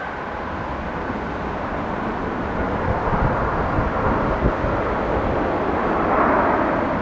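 Jet engine noise from a Boeing 717-200 on arrival, a steady rushing sound that swells to its loudest about six seconds in and then eases off.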